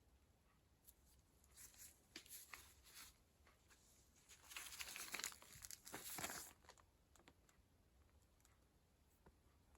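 Faint rustling and crinkling, like material being handled or crumpled, in two spells. The second, about halfway through, is the louder.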